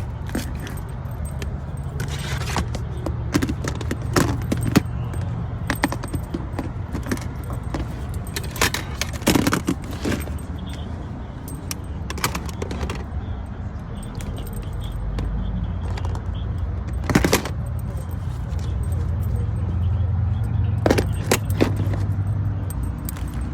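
Small objects being handled, with scattered clinks, clicks and rustles, over a steady low hum.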